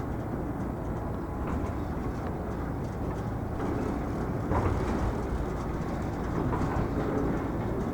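Steady low outdoor rumble with no distinct events, like distant traffic or machinery.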